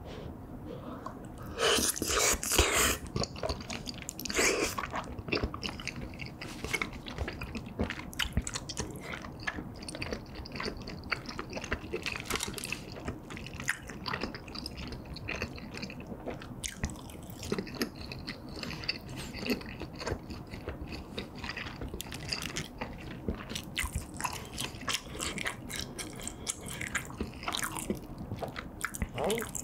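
Close-miked eating sounds: biting and chewing of tteokbokki rice cakes in red sauce and pieces of cheese kimbap, with many small mouth clicks. The loudest bites come about two seconds in.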